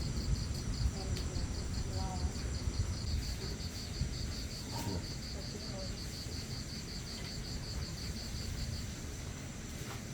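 Insects chirping: an evenly pulsed high chirp, about four or five a second, that stops near the end, over a steady high-pitched insect drone. A low rumbling noise runs underneath.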